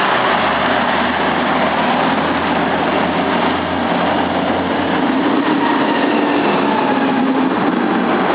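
Street traffic: a motor vehicle engine running close by, a steady rumble under loud rushing noise.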